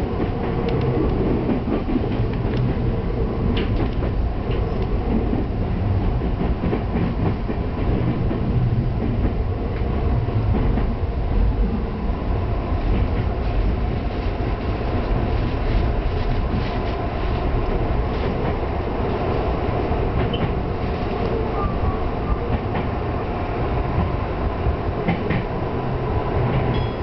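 Tokyu Toyoko Line electric train heard from on board while running at speed: a steady rumble of wheels on the rails, with scattered clicks as the wheels pass over rail joints and points.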